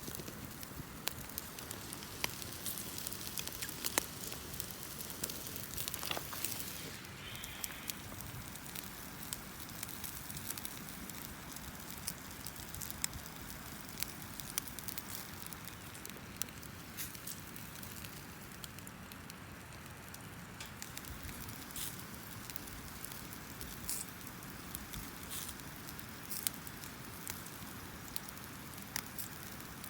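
Wood campfire crackling: scattered sharp pops at irregular intervals over a steady hiss.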